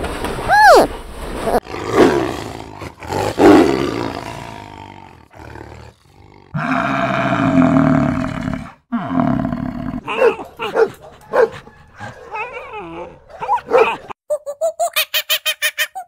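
A string of different animal calls cut one after another: short calls that rise and fall in pitch at the start, then growls and a long low bellow from a bison around the middle, then mixed calls and a fast run of repeated short cries near the end.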